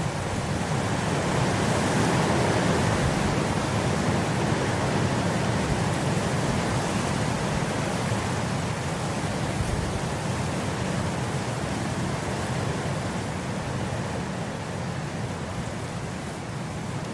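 Wind blowing steadily across grass, a continuous rushing hiss that swells slightly a couple of seconds in and eases off gently toward the end.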